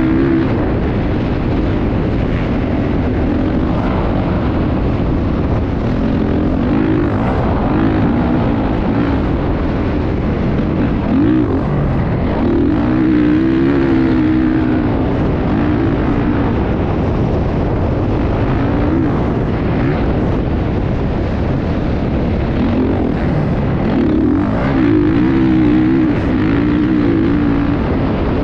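Motocross bike engine running continuously, its pitch repeatedly rising and falling as the throttle opens and closes.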